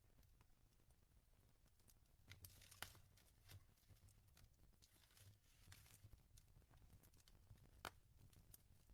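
Faint wood fire crackling, with irregular sharp pops, a few louder ones about three and eight seconds in, over a low rumble.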